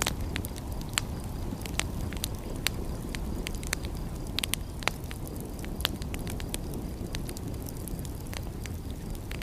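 Wood fire crackling, with irregular sharp pops and snaps, several a second at times, over a steady low rumble.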